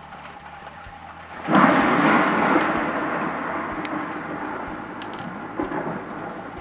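A thunderclap over steady rain: a sudden loud crack about one and a half seconds in, then a rumble that slowly fades.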